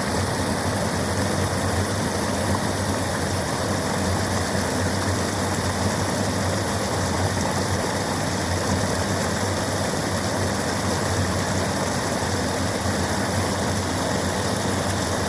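River water rushing steadily, an unbroken loud rush with a low rumble underneath.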